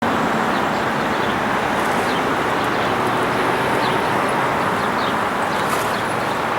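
CSX freight train Q326 rolling past, a steady noise of wheels on rail with a faint hum running under it.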